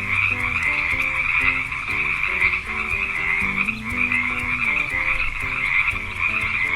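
Frogs croaking in a dense, unbroken chorus.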